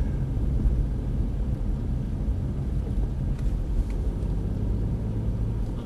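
A supercar's engine running steadily at low revs, a low even engine note heard from inside the cabin.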